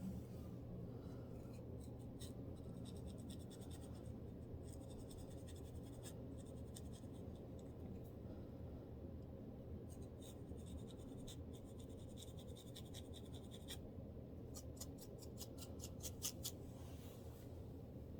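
Close-up scratching of a scalp with dandruff: several runs of fine, rapid scratching strokes with short pauses between them, over a low steady hum.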